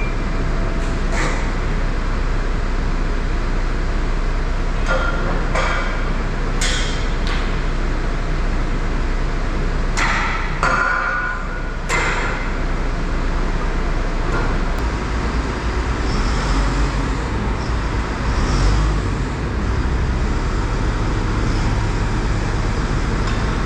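Farm vehicle engine running steadily, with scattered sharp knocks and rattles, the loudest a cluster about ten to twelve seconds in.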